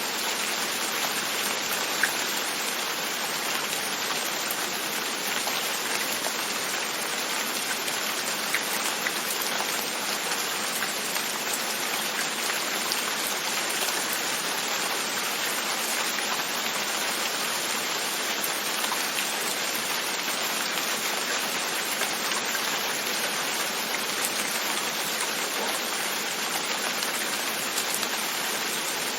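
Steady rain falling on a window, with a few sharper drop ticks here and there.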